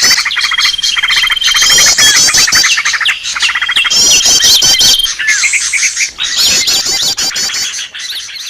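Small-bird lure call ('suara pikat'): loud, dense chirping and rapid trills from several small songbirds at once. A thin, steady whistle is held for about a second twice. The sound fades near the end.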